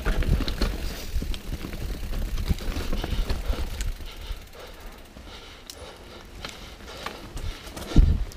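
Mountain bike rolling over rough trail: a low rumble with scattered clicks and rattles from the bike, and one heavy thump near the end.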